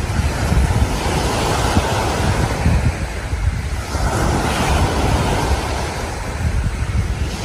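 Waves breaking on a sandy beach, the surf swelling and easing twice, with wind buffeting the microphone in a low rumble.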